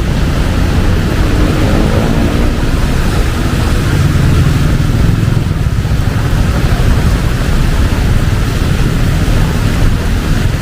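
Heavy rain falling steadily over busy street traffic, with a strong, constant low rumble of engines and tyres on wet road. About a second in, one vehicle's engine rises in pitch as it speeds up.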